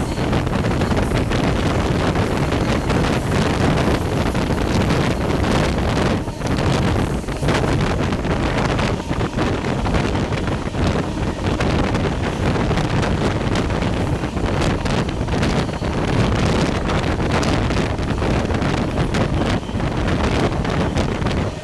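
Passenger train moving along the track: a steady rumble with irregular knocks and rattles from the wheels and cars, and heavy wind buffeting the microphone.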